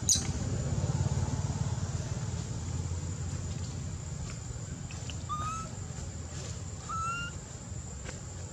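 A low steady rumble with a sharp click at the start, and two short rising, whistle-like animal calls, the first about five seconds in and the second about a second and a half later.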